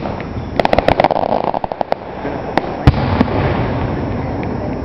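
Aerial fireworks going off: a quick run of sharp crackling pops about half a second in, lasting about a second, then a few separate bangs from bursting shells, the loudest about three seconds in.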